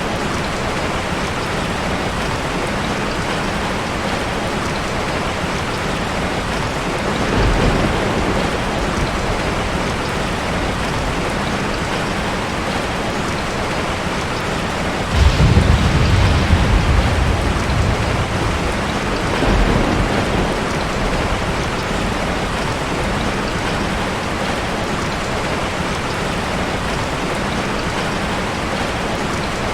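Steady rain with rolls of thunder: a low rumble about seven seconds in, a louder one that breaks in suddenly halfway through and rolls on for a few seconds, and a softer one shortly after.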